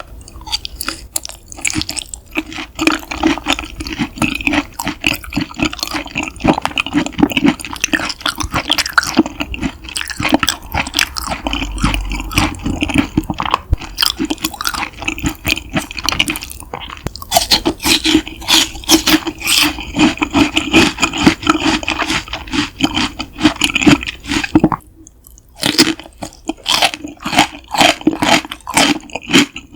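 Close-miked wet, sticky chewing of yukhoe, Korean raw beef, as a dense run of quick smacking clicks, with a brief pause about 25 seconds in.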